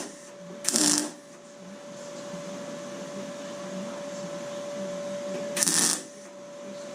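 Two short, loud hissing bursts from a workshop tool, about five seconds apart, over a steady faint hum.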